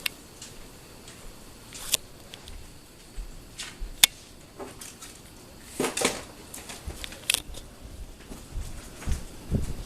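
Hunter Santa Barbara ceiling fan running quietly, with scattered sharp clicks and ticks every second or two and a couple of low thuds near the end.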